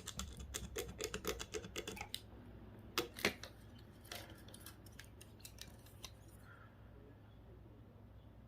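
A tool scraping protective film off a metal part: rapid scratchy clicks for about two seconds, then a few sharper clicks and faint scattered scratching.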